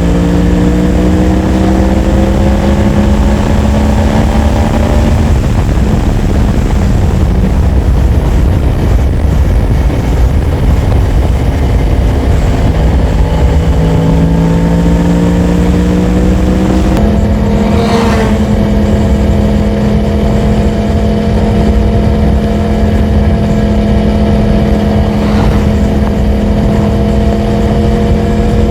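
Yamaha MT-10's crossplane inline-four engine pulling under acceleration while riding, its pitch rising twice, then holding a steady tone from about two-thirds of the way through. Constant wind rush sits under the engine.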